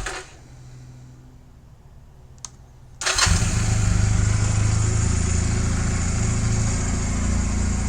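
2009 Honda Rebel 250's parallel-twin engine: a faint low hum and a single click, then about three seconds in the engine starts abruptly and runs steadily.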